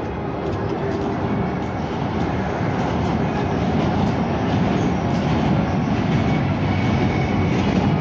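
Light-rail train car running on its line, heard from inside the car: a steady rumble of wheels on rail and running gear that grows gradually louder, with a few faint steady whining tones.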